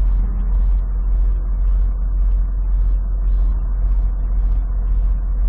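Steady low rumble of a vehicle driving on the highway, heard from inside the cab, with a faint hiss that pulses about twice a second.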